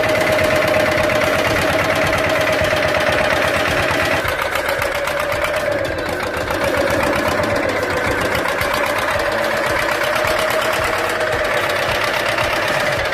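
Diesel tractor engine running hard at steady revs: a rapid, even clatter with a steady whine over it.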